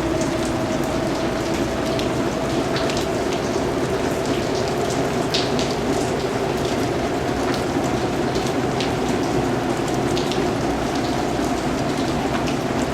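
Steady rain falling, an even hiss with many distinct drops pattering close by.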